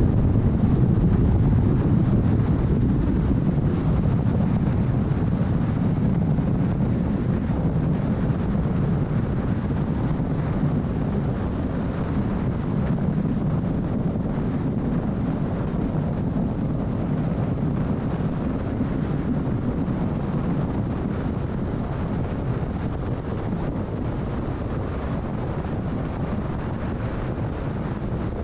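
Steady low rumble of tyre and wind noise from a car cruising on the freeway, slowly getting a little quieter.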